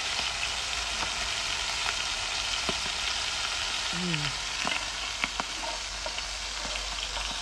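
Coated squid rings shallow-frying in hot oil in a pan, a steady sizzle, with a few light clicks of metal tongs against the pan as the rings are turned.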